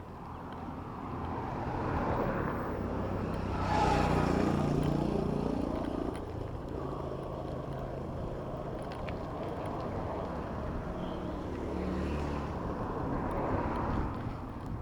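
Street traffic heard from a bicycle: motor vehicle engines passing close by over a steady rumble of traffic. One passes loudest about four seconds in, and another around twelve to fourteen seconds.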